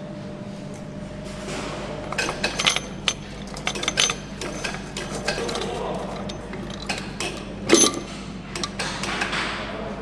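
Hand assembly of an engine: metal parts and hand tools clinking, clicking and knocking at irregular intervals over a steady machine hum, with one heavier metal knock about three-quarters of the way in.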